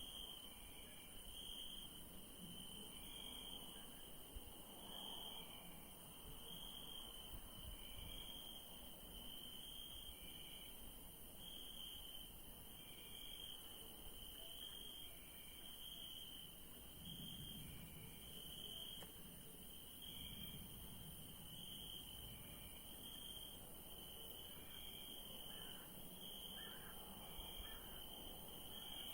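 Crickets chirping in a steady, faint night chorus, their high trill swelling in a regular pulse about once a second.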